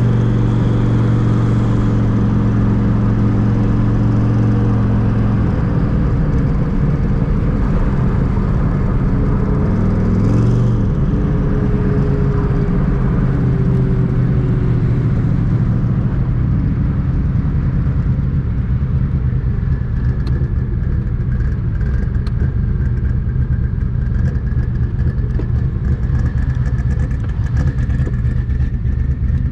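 Twin-turbo Terminator Cobra's 4.6-litre V8 engine and exhaust droning while driving, its note changing about five seconds in and again near ten seconds, then running steady. A faint high whistle comes in over the drone in the later part.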